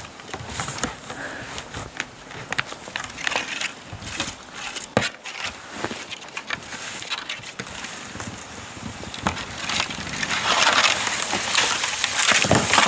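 Plastic whitewater kayak sliding down a snowy hillside, snow crunching and scraping under the hull. The rushing noise grows louder from about ten seconds in as the kayak picks up speed, with a thump near the end.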